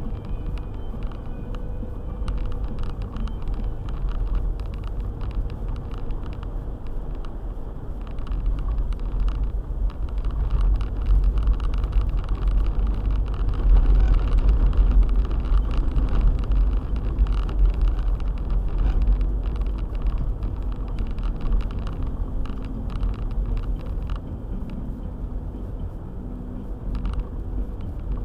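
Four-wheel-drive car driving on a snow-covered road: a steady low rumble of engine and tyres that grows louder through the middle and eases off again.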